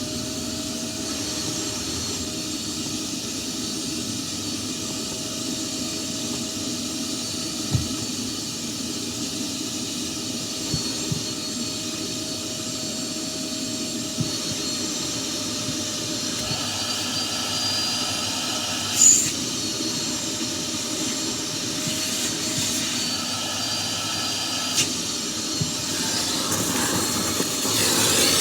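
Vacuum cleaner running steadily, a motor hum with a high whine over it and occasional light clicks; it gets louder near the end.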